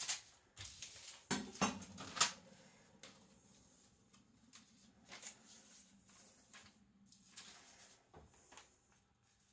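A sheet of paper being handled, with rustling and a handful of sharp taps and knocks in the first two and a half seconds, the loudest about two seconds in, then only faint scattered rustles.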